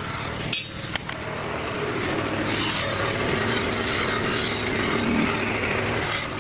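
A click, then a steady mechanical running noise that starts about a second in, swells slightly, and cuts off near the end.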